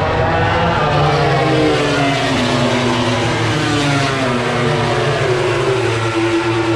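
MotoGP race motorcycles running flat out on the circuit, several engines heard at once, their pitch sliding up and down as they pass.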